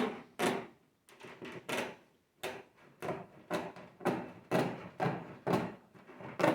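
Hand cutters snipping through wire-mesh hardware cloth: a run of sharp clicks, settling into about two a second from a couple of seconds in.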